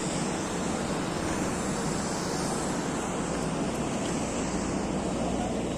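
Steady, even roar of an airplane heard from inside the cabin: engine and airflow noise.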